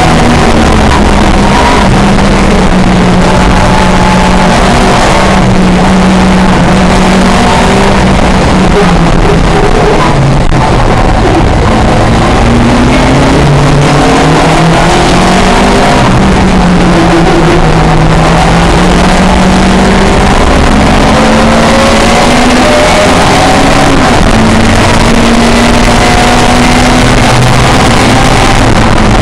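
Pre-1966 touring car engine running hard, its revs rising and falling repeatedly through gear changes, loud and distorted throughout.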